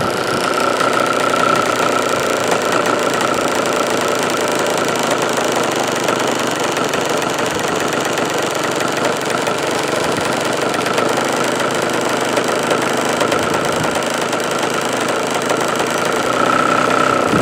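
OS 46 AX two-stroke glow engine in an RC P-51 model, running steadily with the cowl fitted: a loud, continuous high-pitched buzz that grows a little stronger near the end.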